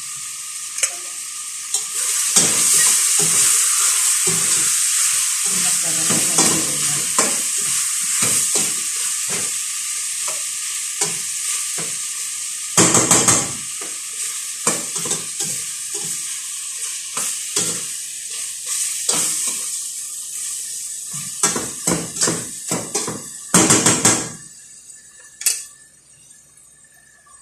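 Ginger and other tinola ingredients sautéing in hot oil in a pan, sizzling steadily while a utensil stirs them with repeated scrapes and clicks against the pan. The sizzle fades away near the end.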